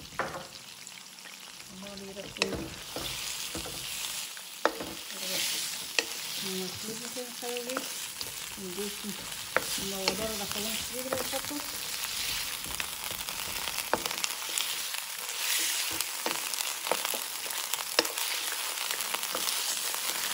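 Lamb pieces sizzling in hot oil and dark sauce in a nonstick wok while a wooden spoon stirs them. The sizzle swells and eases with each turn, and the spoon knocks sharply against the pan several times.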